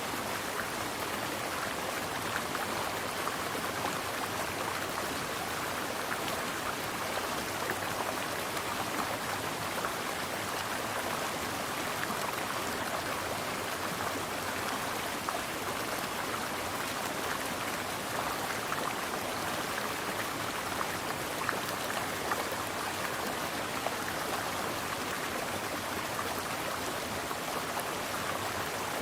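Mountain stream flowing steadily over rocks, a constant splashing rush with fine droplet spatter.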